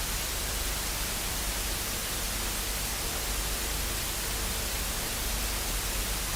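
Steady static hiss with a low hum underneath, unchanging throughout.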